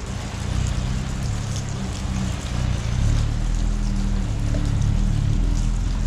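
Water trickling and running, with a steady low rumble underneath.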